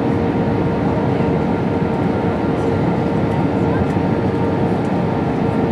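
Steady cabin noise inside an Airbus A320-232 in flight: a constant rush of airflow and IAE V2500 engine drone, with a steady hum running through it.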